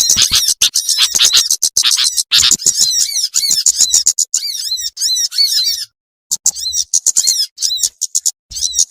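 Bird-lure recording of small birds calling: a dense stream of rapid, high-pitched chirping and twittering, with a short break about six seconds in.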